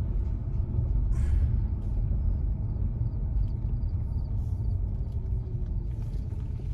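Road and wind noise inside a slow-moving electric car with its windows open: a steady low rumble of tyres and air, with a faint whine sliding down in pitch near the end.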